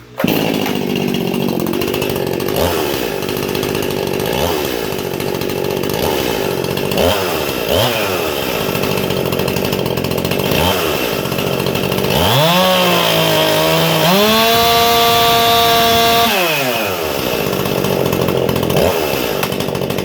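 Ported Stihl MS261 C-M two-stroke chainsaw with a buckshot muffler, running at idle with short throttle blips every couple of seconds. Near the middle it revs up to wide-open throttle, holds high and climbs a little higher for about four seconds, then drops back to idle. A top speed of 13,800 rpm is read afterwards.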